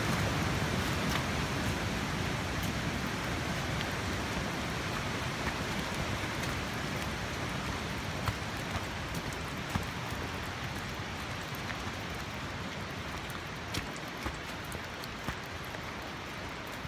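Steady hiss of falling rain, with a few sharp taps of drops here and there, mostly in the second half; the hiss eases off slowly.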